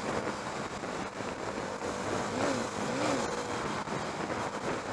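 KTM Duke 390's 373cc single-cylinder engine running steadily at cruising speed, mixed with rushing wind noise on a helmet-mounted microphone.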